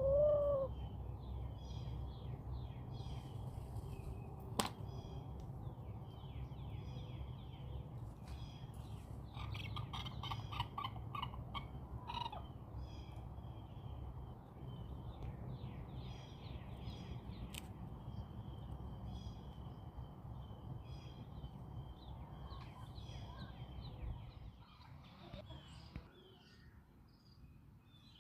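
Backyard chickens: a hen's short call right at the start and a run of clucking around the middle, over steady chirping of small wild birds. A single sharp click comes a few seconds in, and a low rumble underneath fades out near the end.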